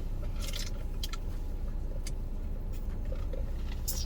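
Steady low rumble, like a car engine idling, with a few short rustles and chewing sounds of someone eating a chicken sandwich and fries.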